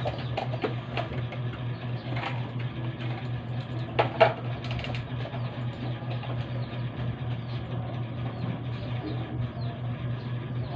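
Washing machine motor running on test after a gearbox replacement, a steady low hum with a fast even pulse. Two sharp knocks come about four seconds in.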